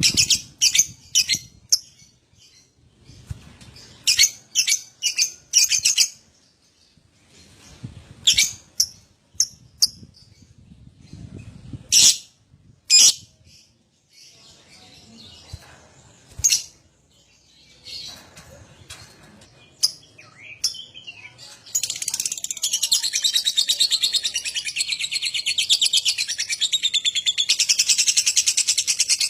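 Lovebird calling: sharp, high chirps in short quick clusters, then, about three quarters of the way through, a continuous rapid chattering trill, the long 'ngekek' chatter that lovebird keepers train for.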